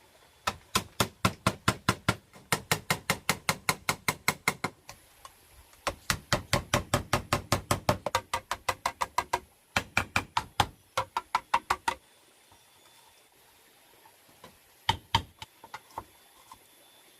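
Rapid knocking strikes of a tool on bamboo, about five a second, in runs broken by short pauses; the strikes stop about twelve seconds in, and a few single knocks follow a little later.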